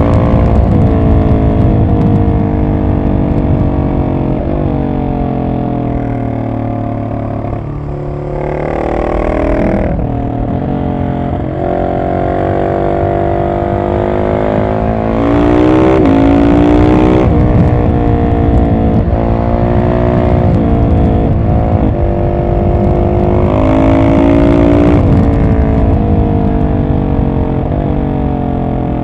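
Husqvarna 701 SM's single-cylinder engine through a de-catted Arrow exhaust, heard from on the bike, running hard as the rider works through the gears: the pitch climbs under throttle, drops at each shift and falls away under engine braking. Three harder pulls on the throttle stand out as louder, brighter stretches.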